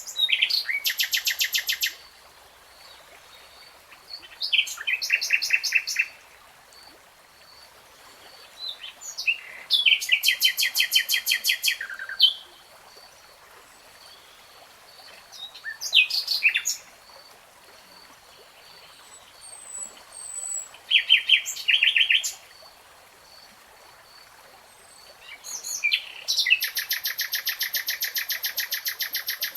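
A songbird singing in separate phrases of fast, rapidly repeated trilled notes, six phrases each one to three seconds long with pauses between them, over a faint steady hiss.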